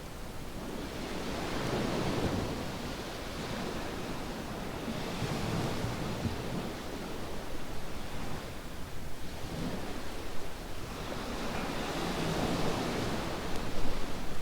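Sea waves washing onto a sandy beach, the surf rising and falling in about three slow surges.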